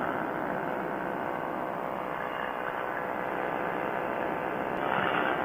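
Quicksilver ultralight airplane's engine and propeller running steadily in cruising flight, a constant drone that swells slightly near the end.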